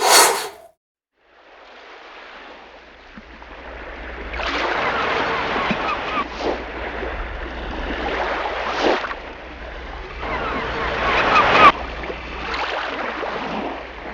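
Sea waves washing onto the shore, swelling and easing every few seconds. A short loud burst comes at the very start, before the surf begins.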